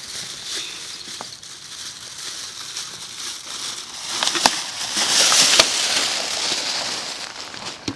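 Rustling and crinkling, growing louder about halfway through, with a few sharp clicks.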